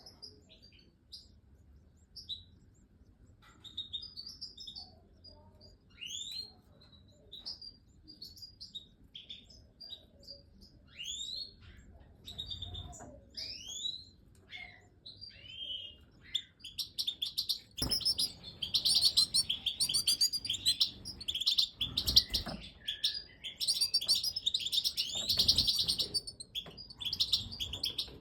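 European goldfinches of the Major race calling in an aviary: scattered short chirps and rising whistles, then from about halfway through a dense, rapid, high-pitched twittering chatter.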